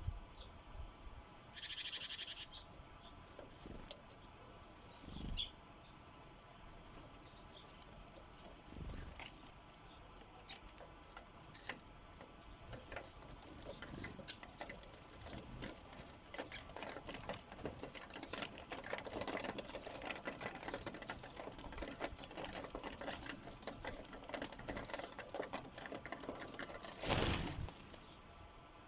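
Sparrows pecking seed at a bird feeder: a stream of light tapping clicks that grows busier in the second half, with a short whoosh about two seconds in and a louder one near the end.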